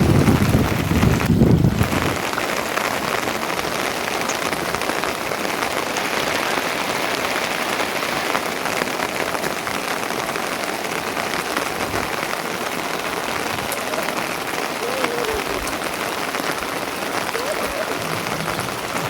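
Steady rain pattering, a dense even hiss of drops, with a louder low rumble during the first two seconds.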